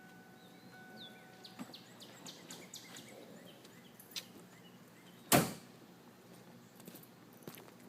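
A car's warning chime beeps briefly and stops about a second and a half in. Light clicks and handling follow, then one loud, sharp thump about five seconds in: a car door being shut.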